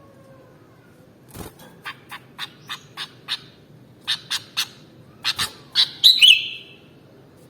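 Sooty-headed bulbul calling: a run of short, sharp chirps about three a second, two more short groups, then a louder warbling phrase near the end.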